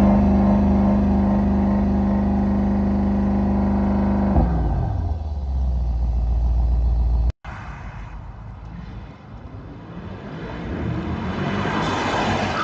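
Mercedes-AMG S 63's twin-turbo V8 held steady at raised revs, then dropping back to a low idle about four seconds in. After a sudden cut, engine and road noise swell steadily louder toward the end.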